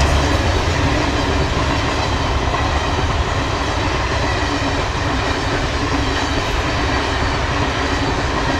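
Passenger coaches of a long express train rolling past on the track, a steady rumble of wheels on rails.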